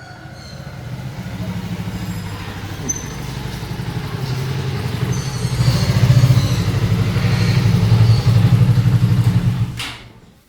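Motorcycle engine running, growing louder over the first six seconds and holding there, then cutting off suddenly near the end.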